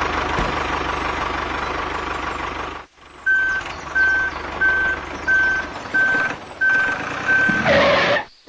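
A steady engine-like rumble runs for about three seconds and cuts off. Then a vehicle's reversing alarm beeps seven times on one high tone, evenly spaced, over a faint motor hum, with a short burst of noise near the end.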